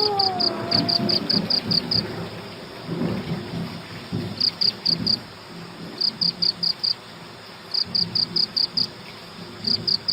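Cricket chirping in groups of several quick high pulses, each group repeating every second or two, over a low rumbling background. At the start the tail of a falling howl fades out about a second in.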